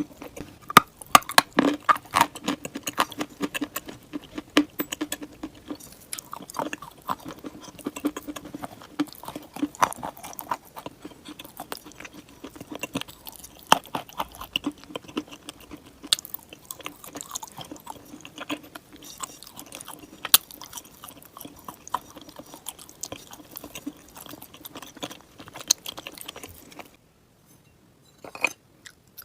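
A person biting and chewing crunchy chalk and clay up close: dense, crisp crackling and crunching that stops about 27 seconds in, followed by a couple of isolated crunches.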